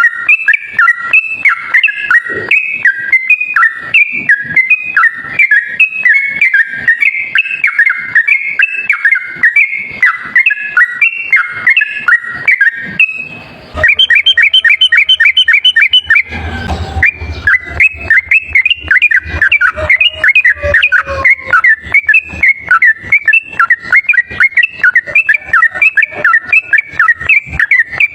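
Sooty-headed bulbul singing a fast, continuous run of loud whistled notes, the rapid 'ropel' song used as a trapping lure call. About halfway through the song breaks off briefly, then resumes with a quick run of higher notes and a short burst of noise before the warbling goes on.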